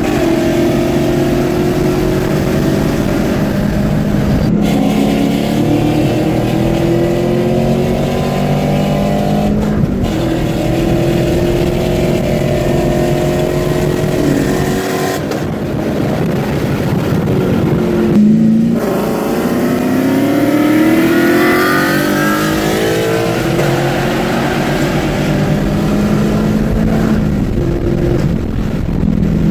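2016 Camaro SS's 6.2-litre V8 with an aftermarket exhaust, heard from inside the cabin, accelerating hard through the gears: the engine note climbs, drops briefly at each shift, about four times, and climbs again, settling into a steadier drone near the end.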